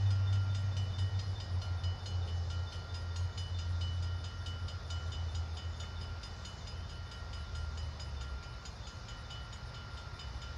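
Diesel locomotive engine running, a low rumble that slowly fades, with a faint even ticking over it.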